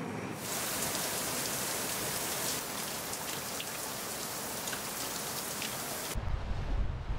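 Steady rain falling on a catamaran's deck, a dense hiss with many single drops ticking on the deck and fittings. It cuts off sharply near the end and gives way to low wind rumble on the microphone.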